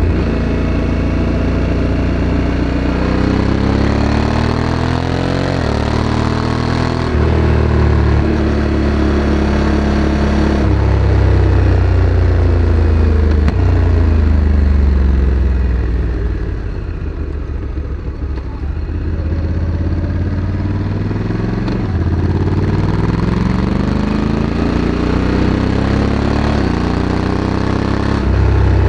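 Honda Africa Twin CRF1100's parallel-twin engine through its factory exhaust, pulling through the gears: the pitch climbs and drops back at each quick DCT shift, eases off around the middle, then rises again through further shifts.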